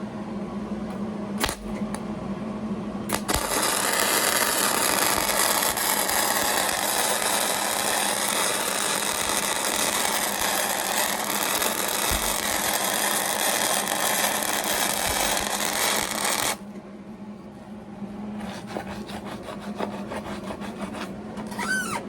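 Wire-feed (MIG) welder arc laying a practice bead: two brief arc strikes, then a steady crackling arc for about thirteen seconds that cuts off suddenly.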